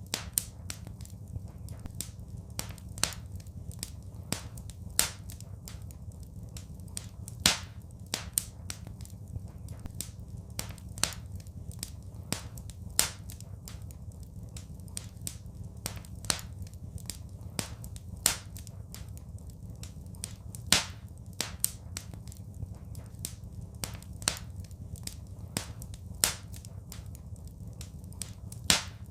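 Wood fire crackling: irregular sharp pops several times a second, with a louder snap every two to three seconds, over a steady low rumble.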